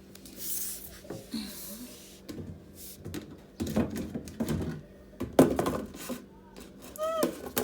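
Irregular knocks and plastic clatter from handling the washing machine's drain filter and a dustpan of drained water, with one sharp click about midway. A short vocal exclamation comes near the end.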